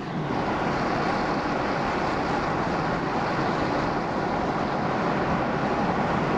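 Steady rushing road and wind noise from a Chevrolet Colorado ZR2 Bison pickup on the move. It gets louder at the start and then holds level.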